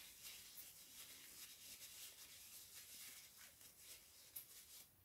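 Faint chewing of a samosa: soft, irregular crackles and mouth clicks, with one sharper click near the end.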